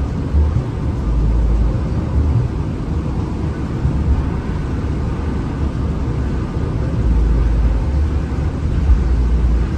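Hino RM 280 bus running at highway speed: a steady, loud low rumble of engine and road noise.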